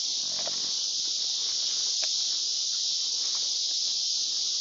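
Steady high-pitched chorus of insects, such as crickets, droning evenly without a break, with a couple of faint ticks.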